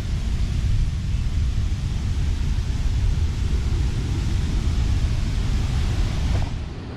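Wind buffeting the camera microphone: a loud, rough rumble strongest in the bass, easing near the end.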